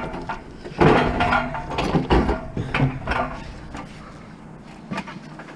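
A run of knocks, clunks and rattles for about three seconds, then a single sharp click near the end: heavy scrap being handled and loaded.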